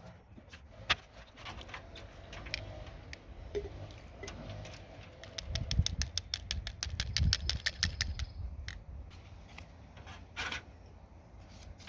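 Scattered clicks and knocks, with a quick, even run of clicks lasting about three seconds in the middle, over a low rumble.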